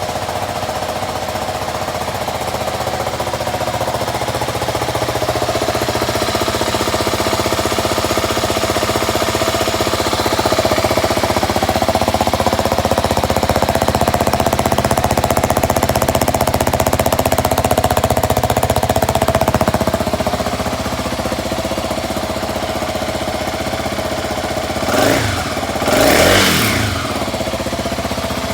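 Kawasaki D-Tracker 250 (LX250V) single-cylinder engine idling steadily. Near the end the throttle is blipped twice, and each time the pitch rises quickly and falls back to idle.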